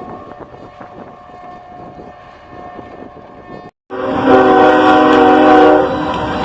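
Quiet rumble of a train with a faint steady horn tone, then after an abrupt cut a locomotive air horn sounds loudly for about two seconds, a chord of several notes held together.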